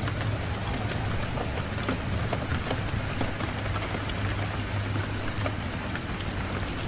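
Fireplace wood fire crackling, with scattered sharp pops over a steady low wind rumble.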